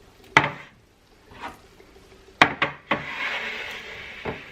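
Tinned food being handled and set down: a sharp knock about half a second in, three quick knocks around two and a half seconds, then about a second of rustling and one more knock near the end.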